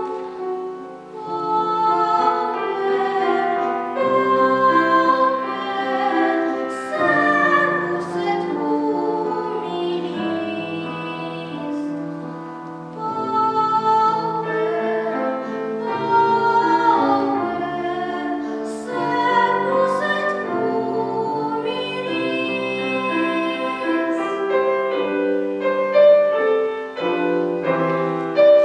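A child singing in classical, academic style with piano accompaniment.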